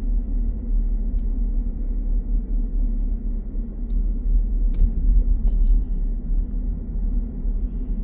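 Steady low rumble of a car's engine and tyres, heard from inside the cabin while driving, with a few faint clicks about five seconds in.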